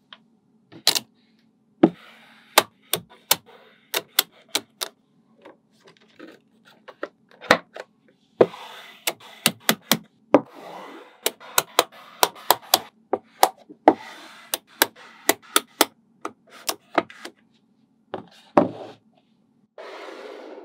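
Small magnetic balls snapping together with sharp, irregular clicks as they are set in place, with softer rattling of the balls between the snaps.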